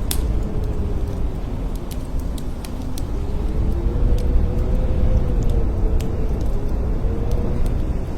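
Blizzard wind blowing hard with a deep, steady rumble and a howling tone that rises and falls, with scattered sharp ticks throughout.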